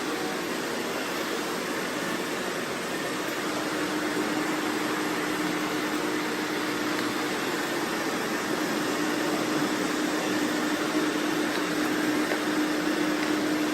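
Robot vacuum running, its suction fan making a steady whir, with a steady hum that comes in about three and a half seconds in.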